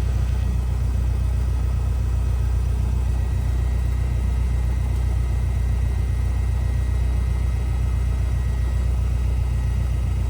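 Cessna 172R's four-cylinder Lycoming piston engine running steadily, heard from inside the cabin as an even, low drone.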